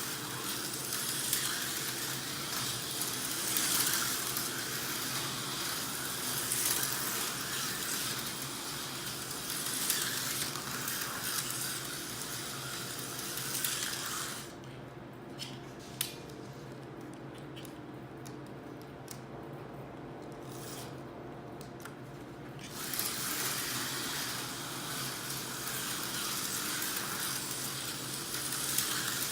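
Tyco HO slot cars running on a plastic track: a steady high hiss and whir from their small motors and pickups on the rails. The hiss stops about halfway through for roughly eight seconds, with a few light clicks, then starts again.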